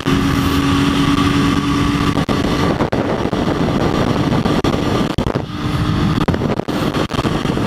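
Motorcycle engine running under way, with heavy wind rush on the rider's chest-mounted camera microphone. A steady engine tone drops away for a few seconds in the middle, then comes back.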